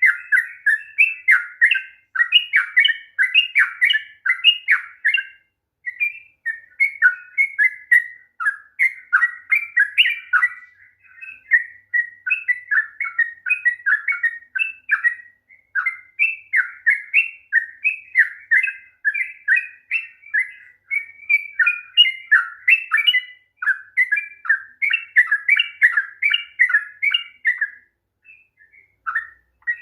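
Yellow-vented bulbul (trucukan) singing a long, rapid, bubbling warble of tumbling notes, in extended phrases broken by brief pauses. This is the long rolling song ("ropel panjang") used as a stimulus to make caged bulbuls sing.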